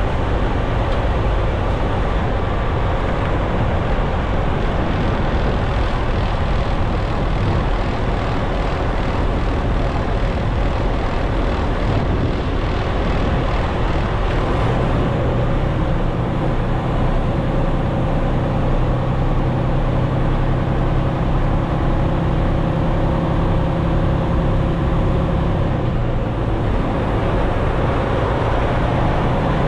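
Semi truck's diesel engine running, heard from inside the cab as a steady low drone. About halfway through, a low hum in the drone grows stronger, then drops back near the end.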